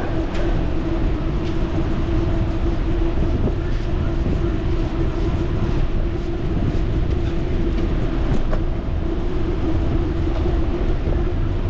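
Steady rolling noise of a bicycle ride: wind buffeting the microphone and tyres on the pavement, with a steady hum and a few faint clicks.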